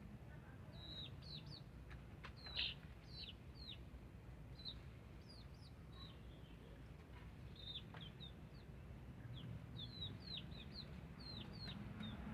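Faint, high bird chirps, many short notes that each fall in pitch, repeated irregularly, with one brief knock about two and a half seconds in.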